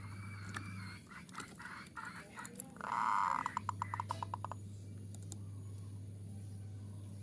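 Zebra dove (perkutut) calling: soft warbling notes, then about three seconds in a loud coo followed by a quick run of about ten short staccato notes.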